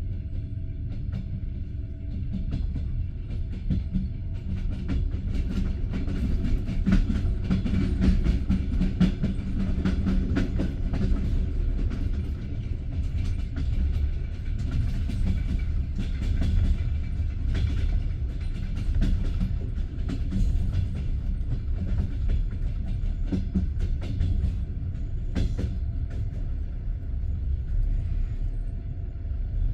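Passenger train coach's wheels running on the rails, heard from inside the car: a steady low rumble with irregular clicks and knocks from the wheels.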